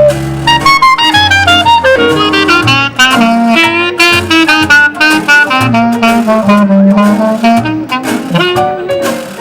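Live New Orleans-style jazz from a small band: a horn plays a fast run of notes over a walking bass line, with a washboard clicking out the beat.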